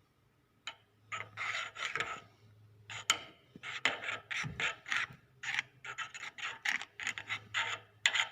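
Repeated short rubbing and scraping strokes, about fifteen in a row, as the greased parts of a steering cardan shaft are worked over by hand.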